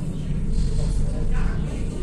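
Steady low rumble and hum of an electric river tram under way, heard on board, with indistinct voices in the background.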